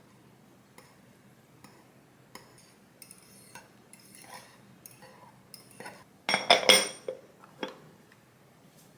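A spoon stirring half-cooked steamed egg in a microwave egg-steamer container, with light scattered clinks. About six and a half seconds in comes a louder clatter of several sharp knocks, then one more knock a second later.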